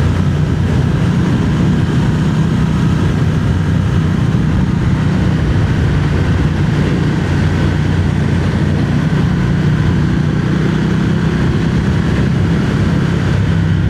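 Triumph Speed Twin 1200's parallel-twin engine running at a fairly steady note while riding, heard through a helmet microphone.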